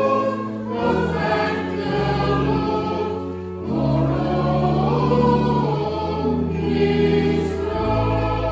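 Church choir and congregation singing a hymn with organ accompaniment, the organ holding steady low chords beneath the voices.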